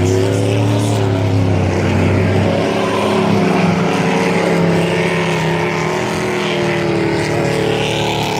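Several dirt-track race trucks running hard around the oval, their engine notes rising and falling as they accelerate down the straights and lift for the corners.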